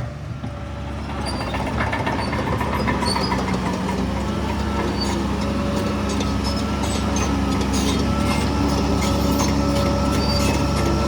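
Heavy diesel earthmoving machinery running at work, getting louder about a second and a half in, with scattered metallic clanks and faint squeaks over the engine.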